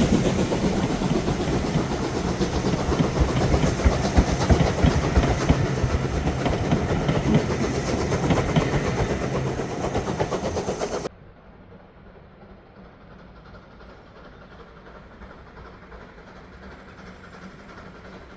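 A train passing close by, its wheels clicking rapidly over the rails, with a steady low hum underneath. About eleven seconds in, the sound cuts abruptly to a much quieter low rumble and hum.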